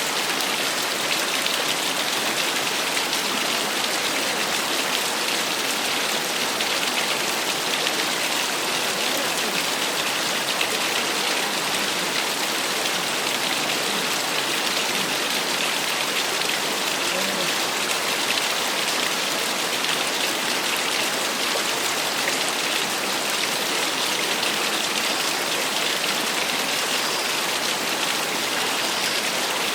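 Small waterfall splashing and trickling in a steady, even rush of water, bright and hissy with little low rumble.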